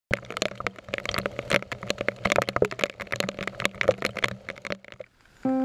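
Raindrops striking the camera: a dense, irregular patter of sharp taps over a faint low hum, fading out near the end as a held synth chord begins.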